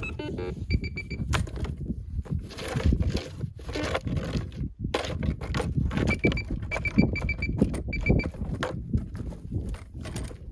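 Metal detector giving runs of short, same-pitched beeps: a quick group about a second in, and a longer run past the middle. The beeps sit over steady rustling and scraping with scattered knocks.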